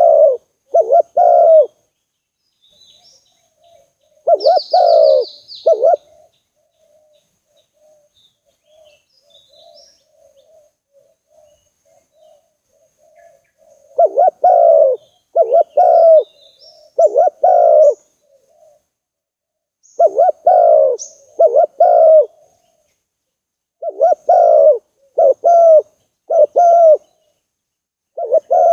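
Spotted dove cooing: loud phrases of low, rolling coos come in groups of two to five, with long pauses between. A fainter dove coos steadily during the longest pause, and small birds chirp faintly and high.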